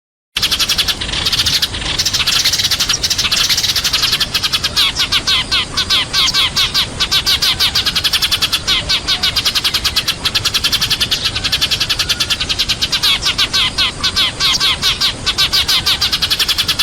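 A flock of sparrows chirping rapidly and continuously, many birds calling at once. This is a sparrow flock-calling recording of the kind played as a lure to draw wild sparrows in.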